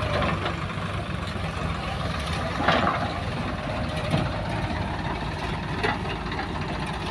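Heavy diesel engine running steadily, with a few brief knocks over it.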